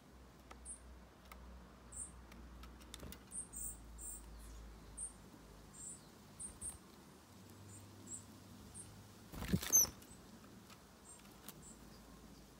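Small garden birds giving short, very high-pitched thin calls, scattered irregularly, about twenty of them. A short loud noise about two-thirds of the way through stands out above the calls.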